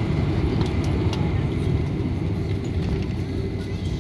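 Steady low rumble of a Boeing 747-400 jet airliner's engines, with a faint steady whine above it.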